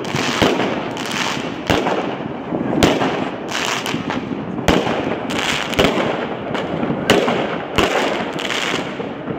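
Many New Year fireworks going off at once across a city: sharp bangs of bursting shells about every second over a dense, continuous crackle.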